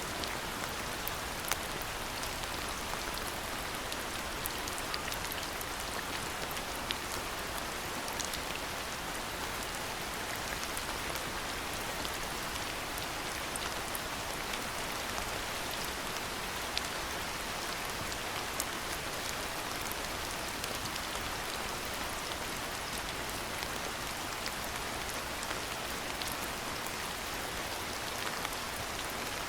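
Steady rainfall, an even hiss with scattered sharper ticks of individual drops hitting surfaces.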